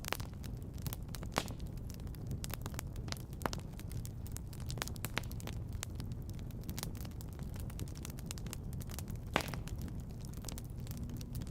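Wood fire in a fireplace crackling, with many irregular sharp snaps and pops over a steady low rumble; one louder pop comes about nine seconds in.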